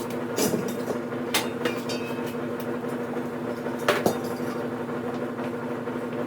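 Several sharp metallic clanks and knocks, a double one about four seconds in, over the steady hum of a running woodshop machine.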